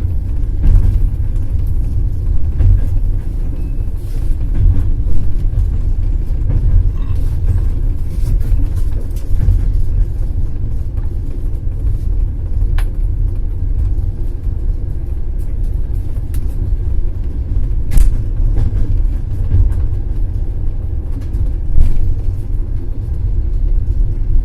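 Passenger train running along the track: a steady low rumble of wheels on rails, with scattered sharp clicks, the loudest about eighteen seconds in and another a few seconds later.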